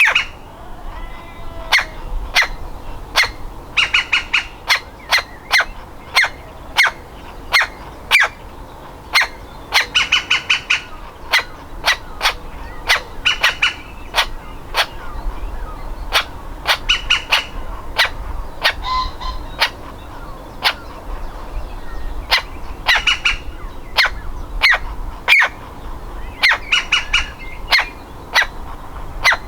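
Woodpecker nestling near fledging, calling from its nest hole. Short harsh calls repeat about once or twice a second, broken several times by quick runs of rapid chattering notes.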